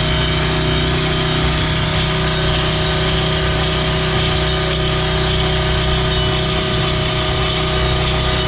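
Gas pressure washer engine running steadily at full throttle, with a steady spray hiss from the wet sandblasting nozzle.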